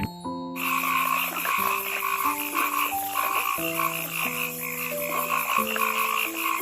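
A rapidly pulsing animal call, repeated without a break, over held low notes that change pitch every second or so.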